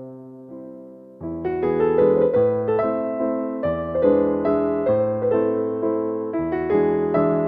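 Slow, gentle piano music: a few soft held notes, then fuller chords come in about a second in and carry on in an even rhythm.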